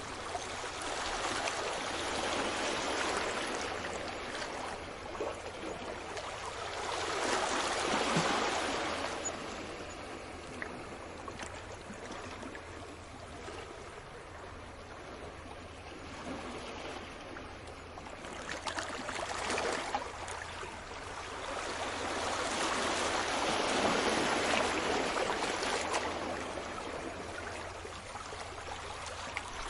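Sea waves washing in and drawing back on a shore, a steady hiss of water that swells and fades, with the biggest surges about eight seconds in and again near the end.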